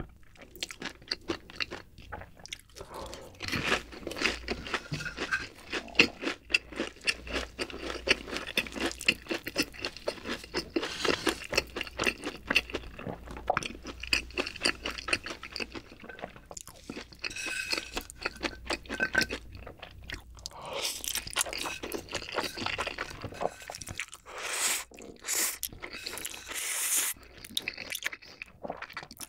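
Close-miked eating sounds: continuous wet chewing of black bean noodles (jjapaghetti), with dense mouth clicks and smacks, and noisier stretches of slurping in the second half.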